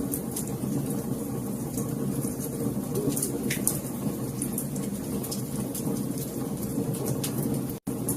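Wood fire burning in a fireplace: a steady low rumble with scattered sharp crackles and pops. The sound cuts out for an instant near the end.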